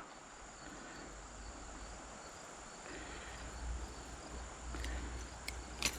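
Quiet creekside ambience: a faint, steady high insect trill over a soft even hiss, with a low rumble coming in about halfway and a small click near the end.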